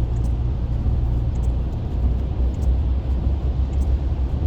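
Steady low drone of a car's engine and tyres heard from inside the cabin while driving on a wet highway, with faint scattered ticks.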